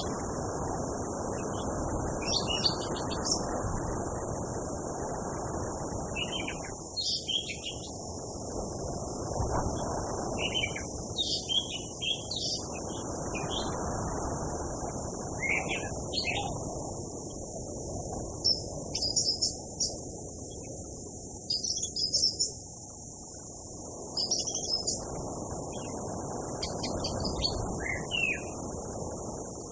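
Orange-headed thrush singing in short, scattered bursts of high chirping phrases, over a steady high hiss and a low rumble of background noise.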